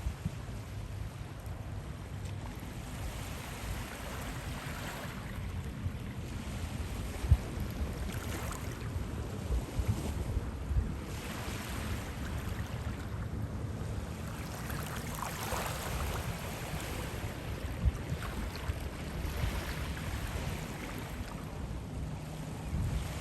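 Wind buffeting the microphone in a steady low rumble, with a few sharp gusts, over the wash of surf on a beach that swells and fades every few seconds.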